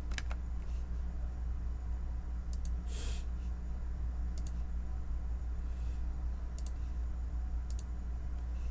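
A handful of sharp computer keyboard clicks at irregular intervals, several in quick pairs, over a steady low hum.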